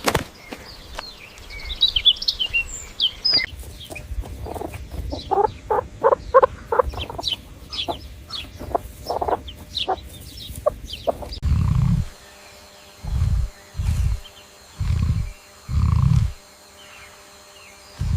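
Chickens clucking in a run of short, repeated calls, with high peeping chirps at the start. In the last third, five short low rumbles.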